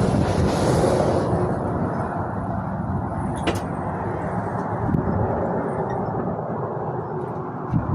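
Exhaust of a 1991 Ford F-150's 4.9-litre inline-six running steadily, heard through a new short L-shaped tailpipe after a Dynoflow muffler. A single sharp click about three and a half seconds in.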